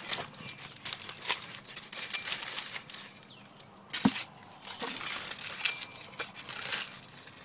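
Aluminum foil crinkling and rustling as a foil-wrapped cardboard oven is handled, with a sharp knock about four seconds in.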